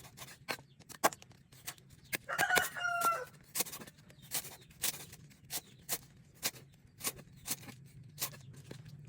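A rooster crows once, briefly, about two seconds in, the call dropping in pitch at its end. Sharp knocks repeat roughly twice a second throughout.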